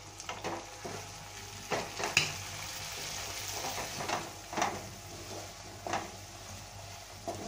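Oyster masala sizzling in a nonstick kadhai as it is stirred with a spatula, the spatula scraping against the pan every second or so. The pan is uncovered so the remaining liquid cooks off.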